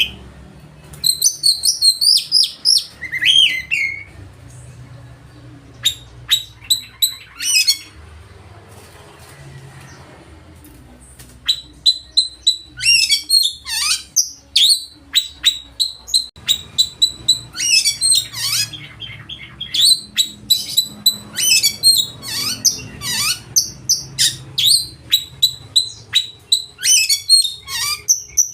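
Oriental magpie-robin (kacer) singing loudly: a varied run of sharp chirps, whistles and quick falling notes. The song comes in short bursts, breaks off for a few seconds about a third of the way in, then resumes as a long, rapid, unbroken stream of notes.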